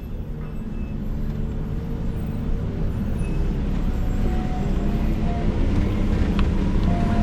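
A 4x4 pickup truck's engine running, gradually growing louder.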